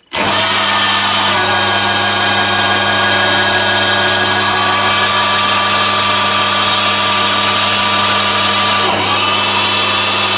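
Chinese mini lathe with a DC motor controller starting abruptly and running under a heavy cut, a steady whine over a low hum. About nine seconds in the pitch briefly dips and recovers.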